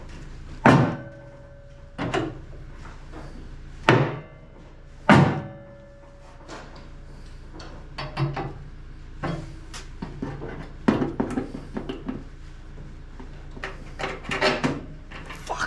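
Slide hammer of a spot-welding dent puller striking its stop to pull a welded pin out of a car body panel: four heavy metallic knocks with a brief ring in the first five seconds or so, then lighter knocks and rattles.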